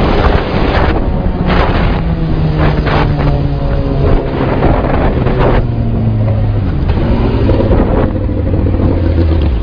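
Motor vehicle engine running with wind and road noise, its pitch slowly falling as it slows down.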